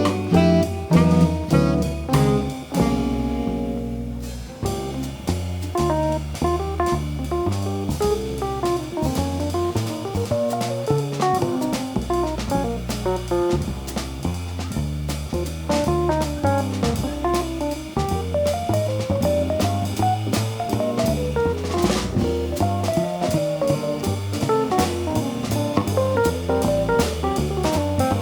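Live jazz combo playing: a guitar runs quick single-note lines over a bass line moving note by note and a drum kit keeping time on the cymbals. A held chord rings briefly a few seconds in before the fast lines resume.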